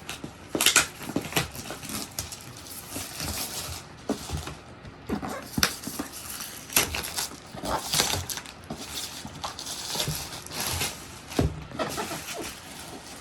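Plastic wrapping being peeled off and crinkled, with irregular rustles and clicks of packaging being handled.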